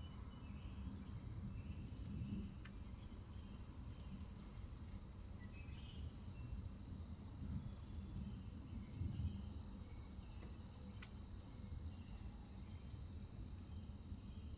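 Outdoor ambience: a steady high-pitched insect drone over a low rumble, a short bird chirp about six seconds in, and a fast high trill from about eight to thirteen seconds in.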